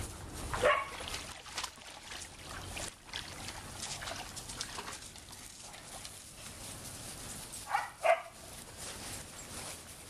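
A dog barking: one bark less than a second in, then two quick barks near the end.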